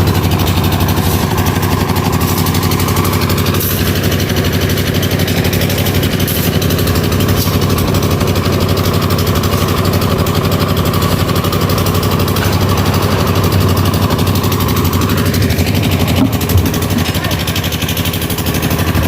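An engine on a concrete-pouring job runs steadily at constant speed, giving an even droning hum. A short knock comes about sixteen seconds in.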